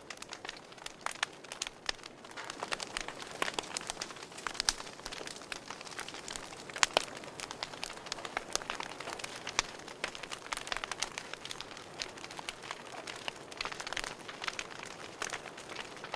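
Wood fire crackling in a fireplace: irregular sharp pops and snaps over a soft hiss of burning, the loudest pop about seven seconds in.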